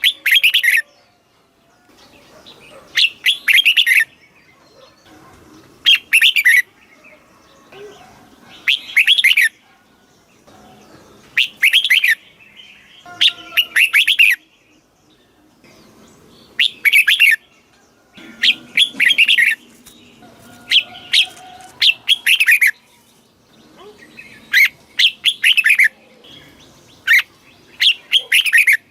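Red-whiskered bulbul singing: short, bright, warbled phrases, repeated every two to three seconds.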